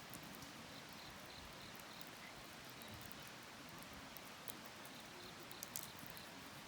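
Wood fire crackling faintly: scattered small pops over a steady hiss, with a few sharper pops about two-thirds of the way through and near the end.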